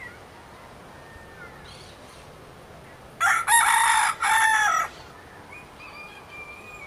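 A rooster crowing once, about three seconds in: one call of about a second and a half, in two parts with a short break between.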